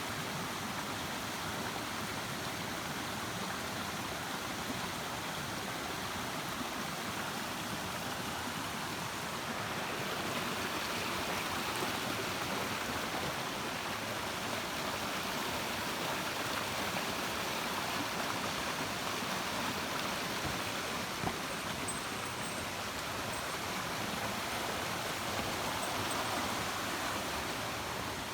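Mountain stream water rushing steadily over rocks in its shallows.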